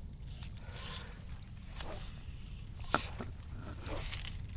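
Steady high-pitched trilling of insects, with a few short clicks over a low outdoor rumble; the sharpest click comes about three seconds in.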